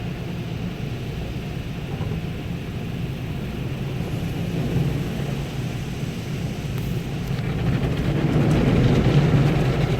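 Automatic car wash machinery running, a steady low drone heard from inside the car's cabin, growing louder near the end.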